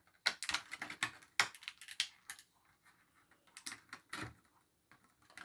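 Quick, irregular clicks and taps of small plastic parts being handled: a ball-jointed doll being sat down and its tiny shoes picked up. They come in a dense run over the first couple of seconds and a shorter group near the end.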